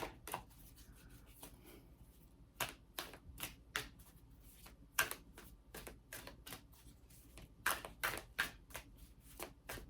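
Tarot cards being shuffled by hand: faint, irregular quick card flicks and taps.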